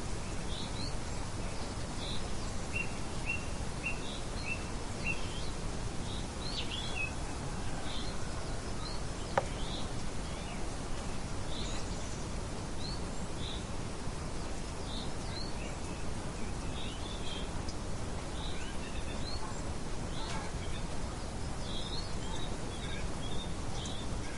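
Birds chirping: many short, high chirps and a quick run of repeated notes, over a steady background hiss. A single sharp click about nine seconds in.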